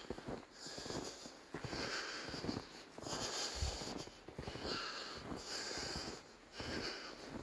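A person breathing hard, the noisy breaths coming in a steady rhythm about once a second.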